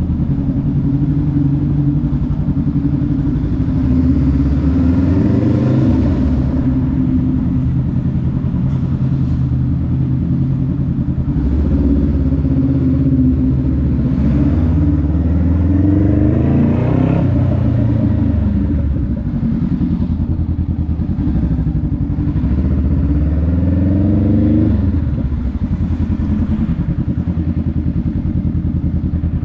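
Honda Rebel 500's parallel-twin engine and exhaust while riding. The engine pitch climbs three times under acceleration and drops back after each climb.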